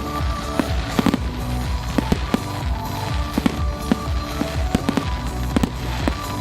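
Fireworks display: many sharp bangs and pops at irregular intervals, several a second at times, with music playing underneath.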